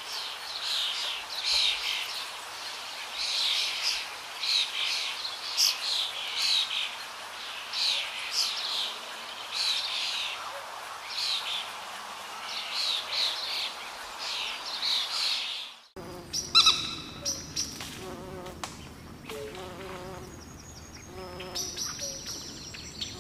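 Small birds chirping over and over, short sharp chirps one after another over a steady hiss. About sixteen seconds in, the sound cuts abruptly to a buzzing mix of warbling steady tones.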